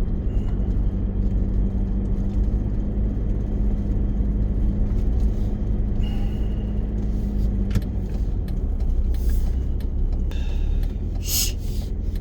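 Car driving along a road, heard from inside the cabin: a steady low rumble of tyres and engine, with a faint steady hum that stops about eight seconds in and a few short hissing rustles near the end.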